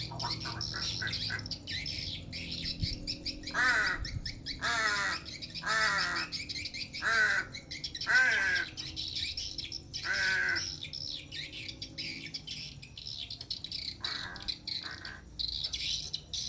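Pet crow giving a series of about eight harsh calls, each falling in pitch, which its owner hears as the crow chanting "Allah". Small birds chirp in a steady high twitter throughout.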